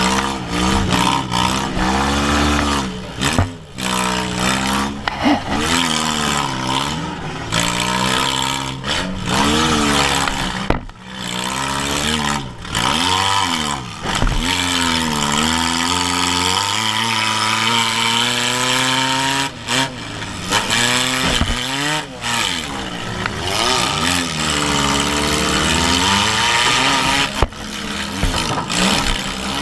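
Demolition-derby Toyota compact car's engine, heard from inside the stripped cab, revving up and down over and over as it drives back and forth. Sharp bangs break in about ten times, the hits of car-to-car collisions.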